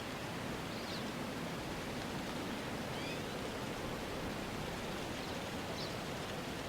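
Steady, even rustling outdoor ambience like wind through trees, with a few faint, short, high chirps scattered through it.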